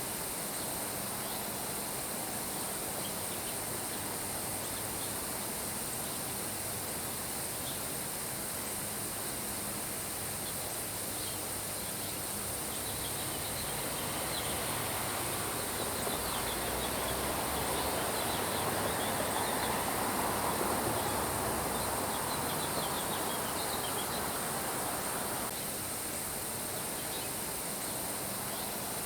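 Steady rain, with birds chirping now and then over a constant high-pitched hiss. The rain swells louder about halfway through, then drops back near the end.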